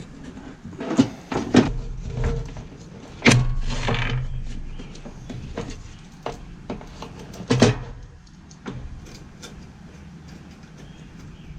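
Knocks and clicks of chainsaw parts (chain, bar and cover) being handled and fitted together on a workbench, with a louder knock about three seconds in followed by a short low scrape.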